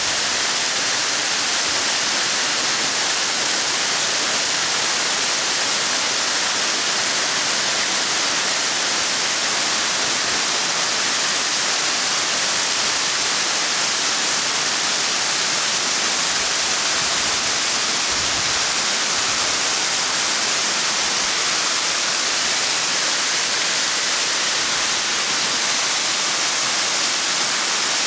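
Waterfall: a steady rush of falling water that does not change in level throughout.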